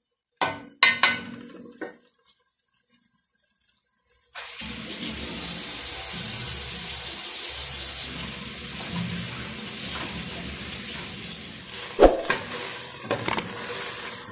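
Aderezo of ají pepper paste frying in oil in a steel pot: a steady sizzle that starts suddenly about four seconds in. A wooden spoon knocks against the pot a few times in the first couple of seconds and twice near the end.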